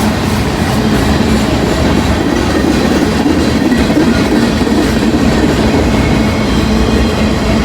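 Freight train's cars rolling past steadily, with the continuous rumble and clatter of wheels on the rails.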